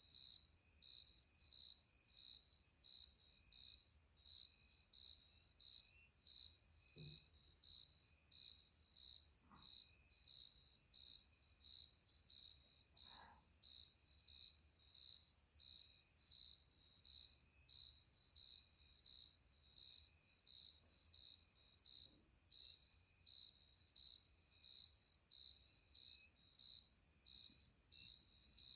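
Crickets chirping in a steady, even rhythm of high-pitched chirps, about one and a half a second, with a fainter continuous insect trill beneath.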